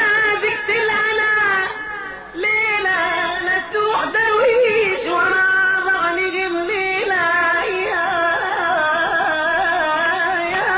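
Music with a solo voice singing a long, wavering melody.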